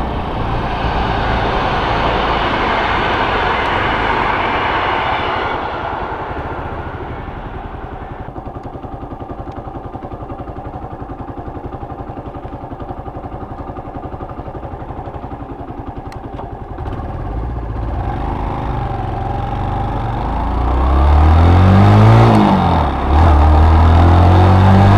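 Suzuki Marauder 125's single-cylinder four-stroke engine through its stock exhaust, heard from the rider's seat. It runs under wind noise while riding, settles to a low, even idle while stopped, then pulls away near the end, its pitch rising through the gears with a brief drop at a gear change.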